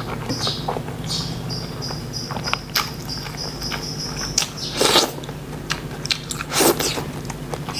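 Close-miked eating: biting into and chewing crunchy food, with two louder crunches about five seconds in and near seven seconds.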